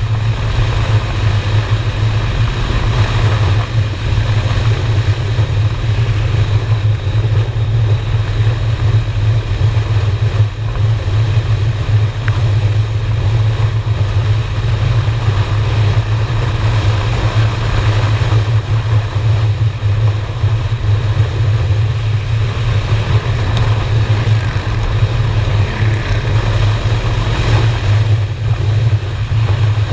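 Honda Shadow V-twin motorcycle engine running steadily at cruising speed, with the rush of wind over a helmet- or bike-mounted action camera's microphone.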